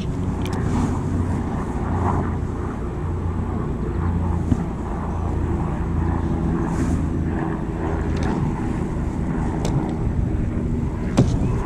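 A steady low motor drone with a few faint clicks.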